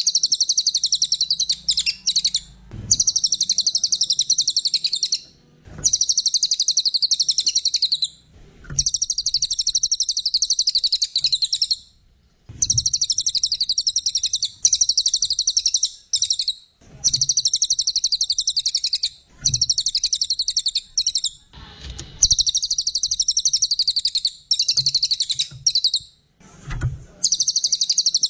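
A cililin songbird singing a rapid, high-pitched chattering song in phrases of about two to four seconds, repeated with short breaks, with a soft low bump in some of the breaks.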